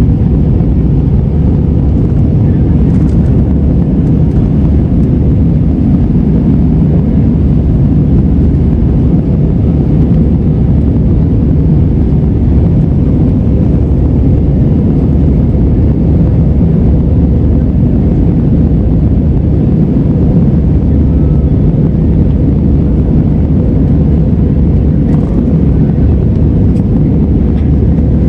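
Airliner cabin noise during the climb: a loud, steady low rumble of the jet engines and airflow, heard from inside the cabin.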